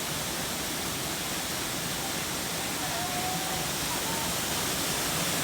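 Large waterfall heard up close: a loud, steady rush of falling water.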